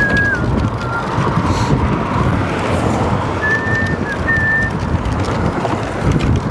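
Steady rumbling road noise with scattered clatter. A few short high-pitched squeaks come at the very start and again around the middle.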